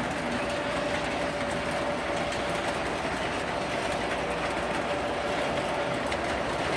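Refrigerator running: a steady mechanical hum with a constant mid-pitched tone over a rushing noise, unchanging throughout.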